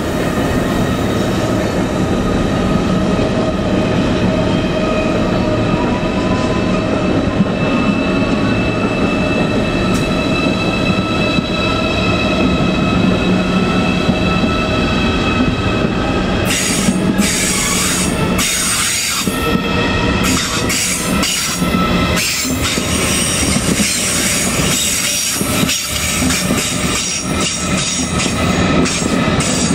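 Deutsche Bahn ICE 4 high-speed train rolling past at low speed through the station, with a steady high whine from the running train. About halfway through, irregular clattering knocks of the wheels over rail joints and points take over as the train draws away.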